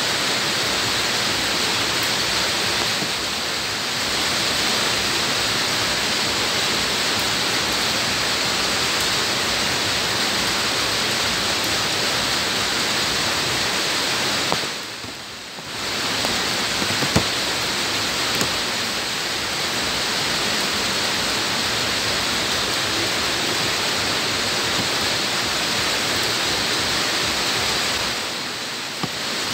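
Steady rain falling on bare ground, a dense even hiss of drops splashing. It dips briefly about halfway through and again near the end.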